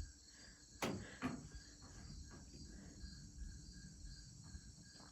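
An insect chorus chirping steadily in an even pulse, over a low outdoor rumble. Two sharp clicks come about a second in.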